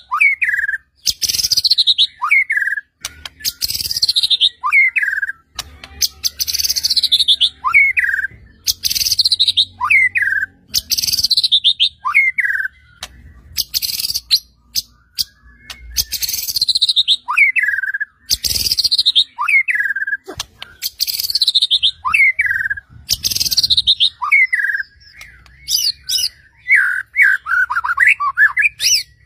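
White-rumped shama (murai batu) singing. One two-part phrase repeats about every two seconds: a short whistled slur, then a descending trilled sweep. Near the end the song breaks into a quicker run of varied notes.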